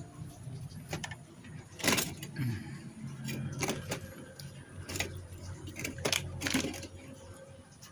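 Metal clinks and knocks of hand tools and parts during motorcycle engine reassembly, about six sharp hits spread unevenly over a low steady hum.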